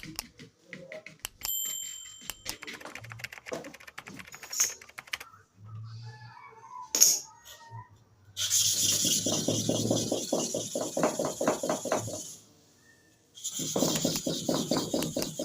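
Hair clipper blade being sharpened by hand: scattered clicks and knocks of handling the blade, then from about eight seconds in a fast, even run of rasping back-and-forth strokes, several a second, broken by a pause of about a second near the end before resuming.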